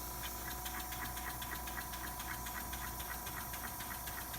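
Small tankless airbrush air compressor running with a steady hum, while a model beam engine driven by its air ticks along at about five clicks a second.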